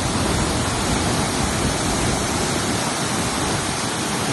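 Waterfall's falling water rushing, a steady, even noise with no breaks.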